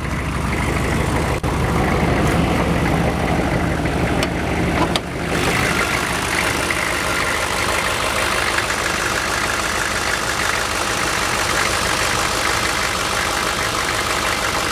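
1996 Chevy 1500's 6.5-litre turbo-diesel V8 idling steadily through a full flow-through exhaust. About five seconds in the sound turns brighter and fuller.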